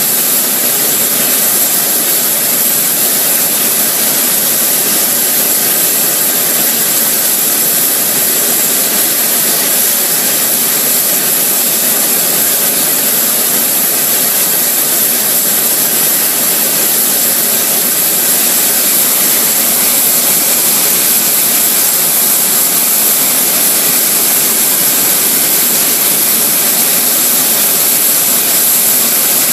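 Airbus A380 turbofan jet engine running steadily during an engine test: a loud, even rush with a steady high-pitched whine on top.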